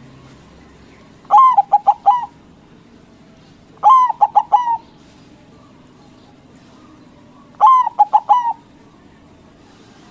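White zebra dove (perkutut) cooing its song three times, a few seconds apart: each phrase is a longer opening note followed by four quick, clipped coos, about a second in all.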